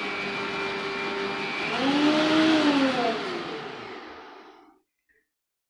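Electric blender motor running with its lid closed, holding a steady pitch, then its pitch swells up and drops back about two seconds in as it speeds up and slows, before winding down and stopping.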